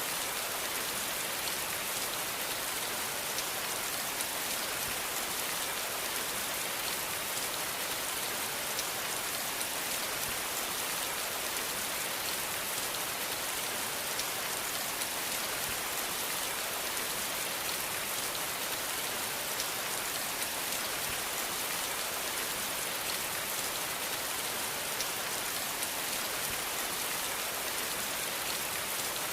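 Steady rain falling on a surface: an even hiss dotted with the small ticks of individual drops.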